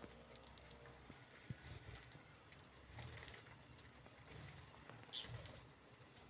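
Lovebirds moving about, faint scattered tapping and scuffling, with a short faint chirp about five seconds in.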